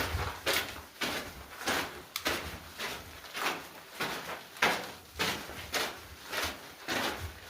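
A hiker's footsteps on a dirt trail, a steady walking rhythm of scuffing steps, a little under two a second.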